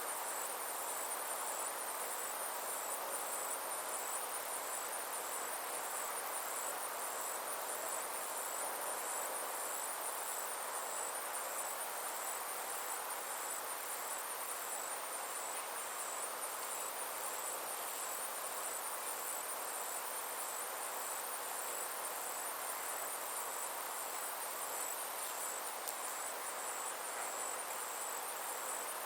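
Summer insects trilling steadily: a fast, even, high-pitched pulsed chirring over a soft, steady hiss.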